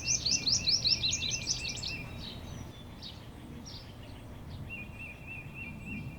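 Songbird song: a fast run of high notes sliding down, for about the first two seconds, over a lower, quickly repeated twitter that comes back near the end.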